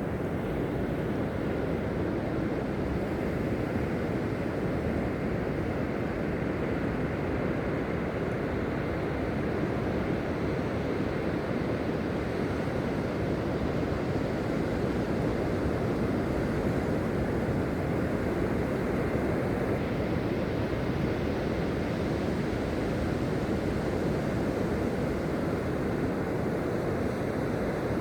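Ocean surf washing steadily onto the beach in a continuous, even wash, with wind rumbling on the microphone.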